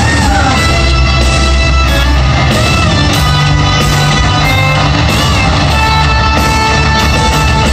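Live hard rock band playing loud distorted electric guitars, bass and drums, with no vocals, as heard in a concert audience recording.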